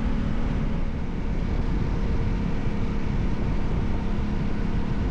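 Yamaha Ténéré 700's parallel-twin engine running steadily at highway cruising speed, with the constant rush of wind and road noise from the moving motorcycle.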